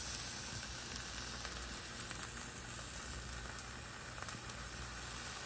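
Beef-filled puff-pastry flatbread sizzling steadily in a frying pan with only a little vegetable oil, a fine even crackle of dough browning.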